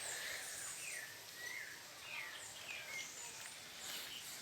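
Wild birds chirping faintly over outdoor ambience: a handful of short, scattered chirps and whistles, some sliding up and others down in pitch.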